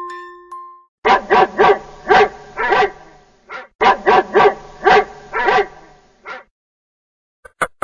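Dog barking: two quick bouts of about five barks each, the second bout repeating the first. A glockenspiel note rings out in the first second.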